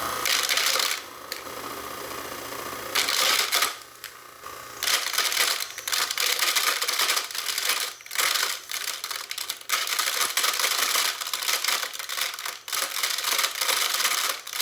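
InSinkErator garbage disposal grinding a small plastic remote: loud, irregular clattering and crunching of the remote being chewed up against the grinding plate, in bursts with short lulls, over the motor's hum.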